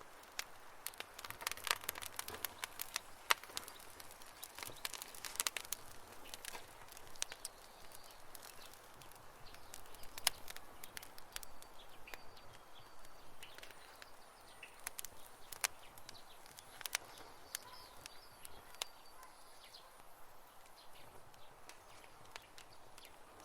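Campfire crackling, with irregular sharp pops and snaps of burning wood, busiest in the first several seconds and sparser after.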